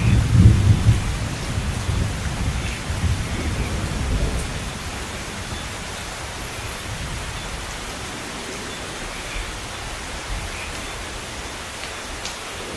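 Rain falling steadily, with a low rumble of thunder in the first few seconds that dies away about four seconds in, leaving the even hiss of the rain.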